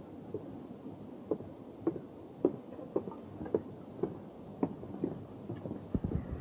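Footsteps of hikers walking on a hard, hollow-sounding surface such as a wooden boardwalk, a sharp knock about twice a second, with a couple of heavier thuds near the end.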